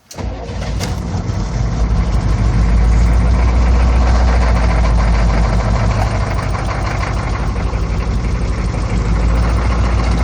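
The M1009's 6.2-litre V8 diesel catching on a cold start in bitter cold, without the block heater plugged in and after its glow plugs were cycled. It fires right at the start, builds louder over about two seconds, then keeps running steadily.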